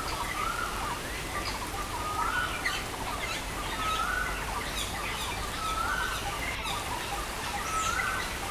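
Birds chirping over the steady hiss of rain. One bird repeats a short call that rises and falls, about every second and a half, with fainter chirps between.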